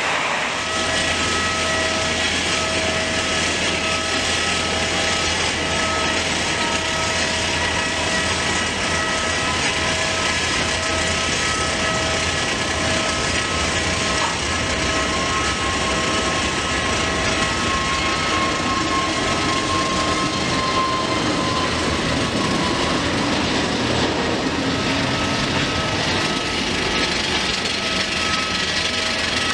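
Jet engines of an Airbus A320-family airliner running at takeoff power for departure, heard as a steady roar with a pulsing hum. A fainter whine slowly falls in pitch midway.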